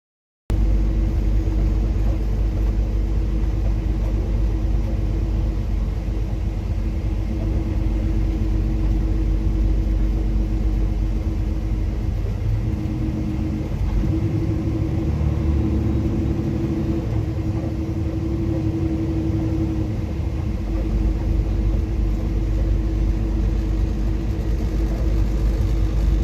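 A motor vehicle's engine running steadily under way, a loud, even drone whose low hum changes for several seconds midway.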